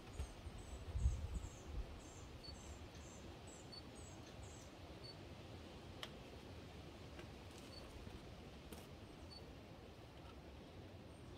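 Quiet outdoor ambience with a small bird twittering in a quick series of high chirps for the first few seconds, then only a few faint high pips. A soft low rumble swells briefly about a second in.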